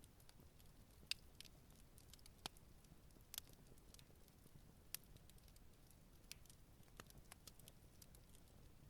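Campfire burning quietly, the wood crackling with scattered, irregular sharp pops and snaps over a faint low hiss; the loudest pop comes about a second in.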